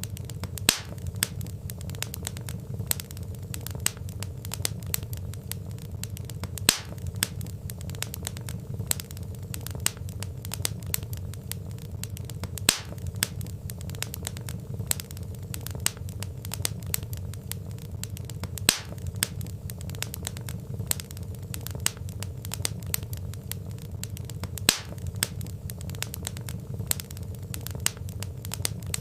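Wood fire in a fireplace crackling steadily over a low rumble of flames, with a sharper, louder log pop about every six seconds.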